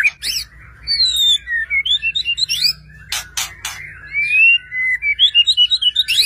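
White-rumped shama (murai batu) singing a loud, varied song: clear whistles, rising and falling glides and quick trills, with a few harsh notes about three seconds in.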